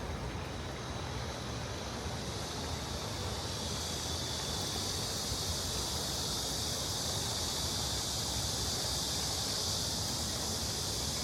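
Steady rush of stream water flowing over stones, its hiss growing louder about four seconds in, over a low rumble of city traffic.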